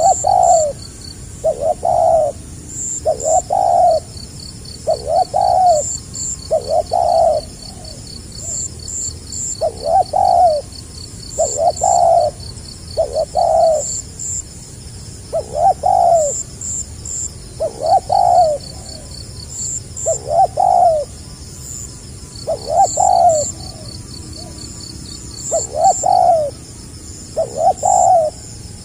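Spotted dove cooing over and over in the stuttering 'gagap' style: short low coos, about one a second, in runs broken by brief pauses. Faint high chirping runs underneath.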